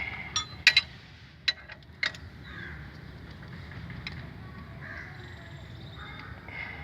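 Several sharp clicks and knocks of hand tools in the first two seconds, over a steady low background hum, with a few faint crow caws.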